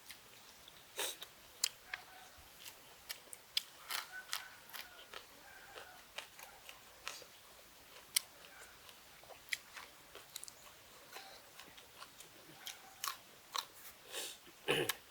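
A person chewing close to the microphone, with irregular wet mouth clicks and smacks while eating raw beef tripe and liver.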